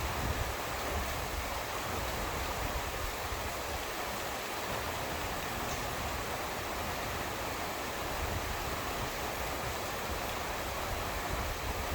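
Steady rain falling, an even continuous hiss with no thunderclap.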